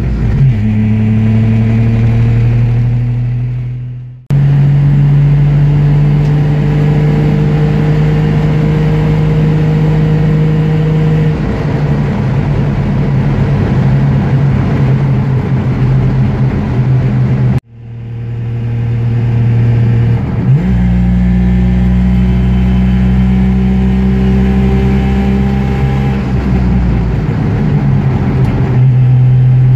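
1968 Saab 95's three-cylinder two-stroke engine pulling on the road, heard from inside the cabin through an exhaust that still lacks its second muffler. A loud, steady drone changes pitch with the gear changes about a third and two-thirds of the way through, and twice it fades away and cuts abruptly back in.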